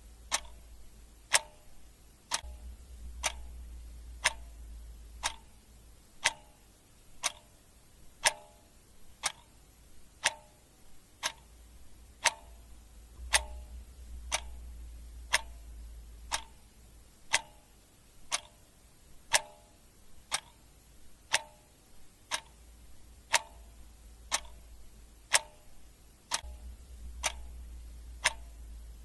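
Clock ticking steadily at about one tick a second, with a faint low rumble now and then underneath.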